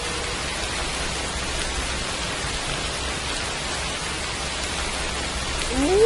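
Steady rain hiss. The tail of a wolf howl fades out right at the start, and near the end a new wolf howl begins, rising in pitch.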